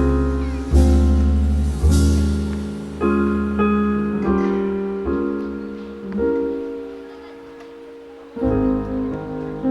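Background piano music: slow chords struck about once a second and left to ring, thinning out to a quiet held chord near the end before fuller chords come back.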